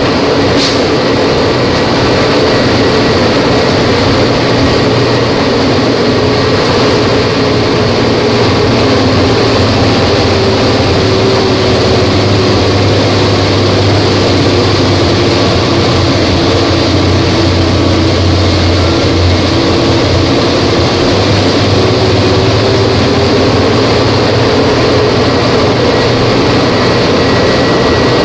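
Volvo B270F Euro 3 bus engine running steadily and loud, its pitch sagging slowly through the middle and climbing back near the end.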